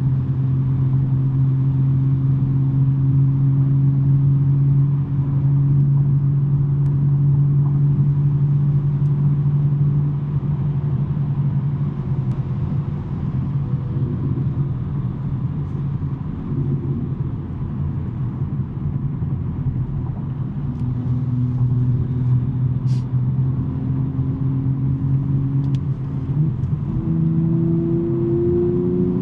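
BMW M3 G80's twin-turbo straight-six with a non-resonated J-pipe exhaust, droning steadily at cruise. The pitch drops and weakens partway through, then comes back and rises near the end as the car speeds up.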